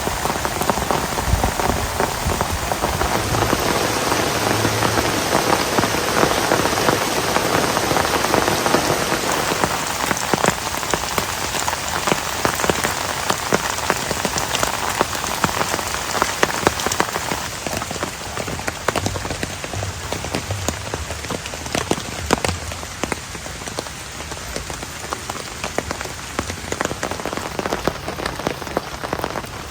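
Heavy rain falling, with a dense patter of individual drops striking close by. It eases slightly about two-thirds of the way through.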